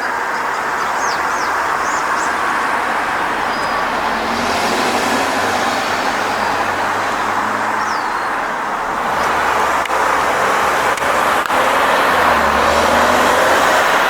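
Road traffic: cars going by, a steady rush of tyres and engines that grows louder in the second half, with a few faint high bird chirps.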